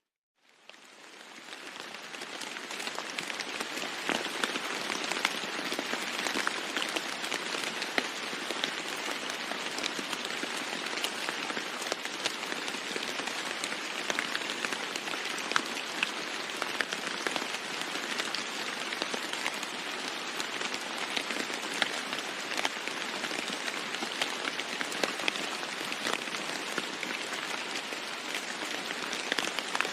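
Heavy rain falling steadily on a roof, with many separate drop hits ticking through the patter. It fades in from silence over the first couple of seconds.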